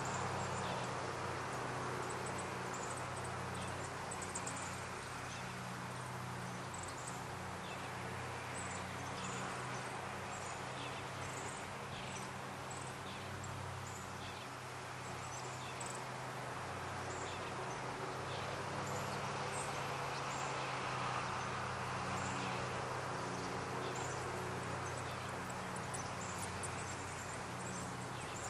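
Short high chirps of small birds, scattered irregularly throughout, over a steady low hum and a hiss of background noise.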